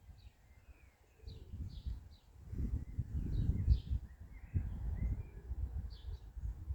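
Wind buffeting the microphone in low gusts, with small birds chirping throughout in short high calls.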